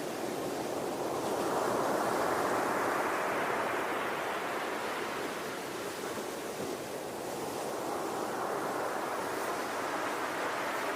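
Ocean waves breaking and washing on a shore: a steady rush of surf that swells about a second in, eases off midway and builds again near the end.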